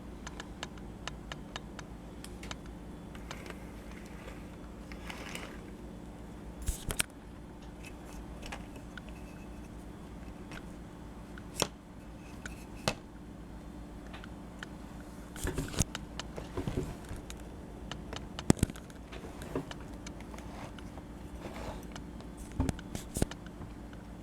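Scattered light clicks, taps and scrapes from a small diecast metal toy being handled, over a steady low hum.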